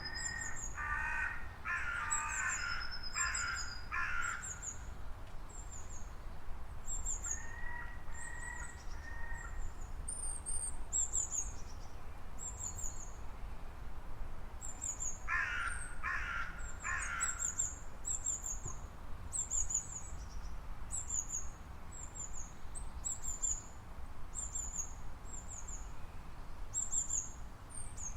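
Outdoor bird chorus: a high chirp repeated about once a second throughout, with two short series of harsh, cawing calls, one near the start and one about halfway through, over a steady low background rumble.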